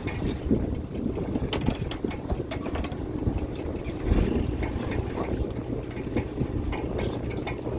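Fishing boat's engine running steadily under many irregular clicks, knocks and rattles of gear on deck.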